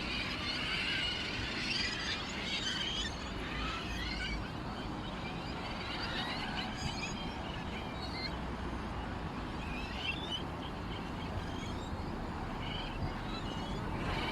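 Small birds chirping and twittering in scattered bursts of short, high chirps, over a steady background noise.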